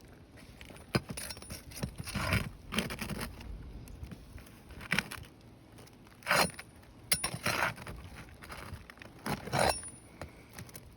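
Steel flat bar prying and scraping under old, brittle asphalt roof shingles, with sharp clicks and cracking as the shingles break: irregular scrapes a second or two apart.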